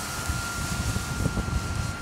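Radio-controlled Cessna 182 model's motor and propeller running at a steady high pitch, with gusty wind buffeting the microphone.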